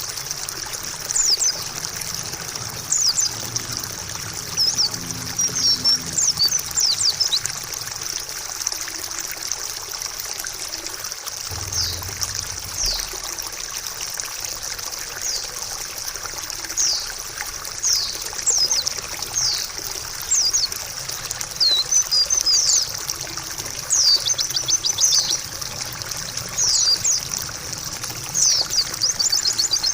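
Trickling water running steadily, with a white-eye (pleci) singing quick clusters of high, sharp, downward-sweeping chirps over it. There is a brief low rumble near the middle.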